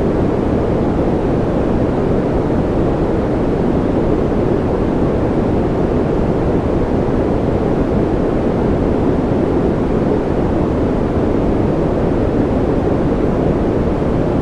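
Continuous baby-sleep noise: a steady, unchanging rush with most of its weight low down and little hiss on top.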